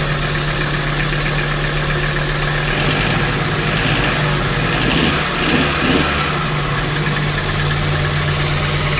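VW T4's 2.5-litre five-cylinder AAF petrol engine idling with a knock that persists even when the spark plug leads are disconnected one by one, so the cause is not ignition-related. The running changes briefly around the middle.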